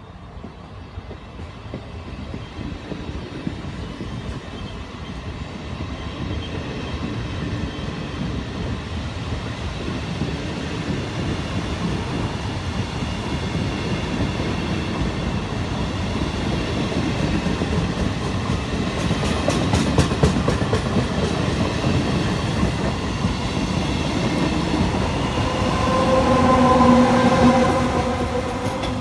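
Trenitalia regional train of Media Distanza coaches with an E.464 electric locomotive passing close by, its wheels clattering over the rail joints as the rumble builds. Near the end a steady pitched tone rises over the train noise.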